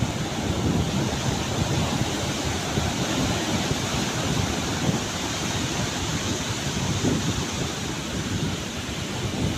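Ocean surf with wind: a steady rushing noise with a low rumble, without breaks.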